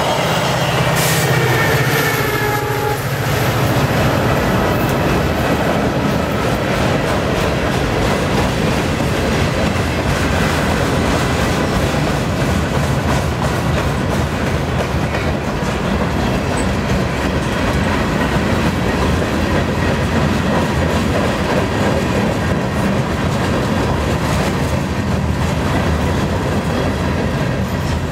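A freight train of boxcars rolling past with a steady rumble and rattling wheel clatter. In the first few seconds the tail of a passenger train with its trailing diesel locomotive pulls away on the nearer track, and its tones fall slightly in pitch as it goes.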